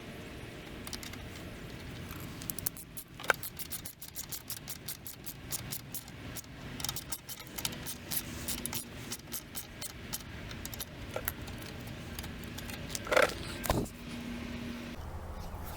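Light metallic clicks and clinks of small parts and hand tools being handled, coming in quick irregular runs through most of the stretch, with a couple of louder knocks near the end.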